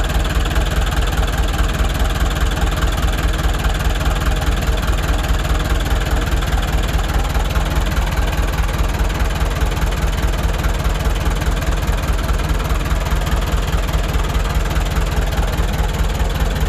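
Heavy earthmoving machine's diesel engine running steadily with an even, fast low throb.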